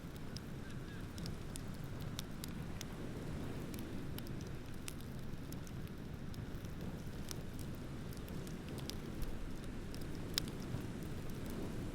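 Wood bonfire crackling, with irregular small pops and two sharper pops near the end, over a steady low rumble.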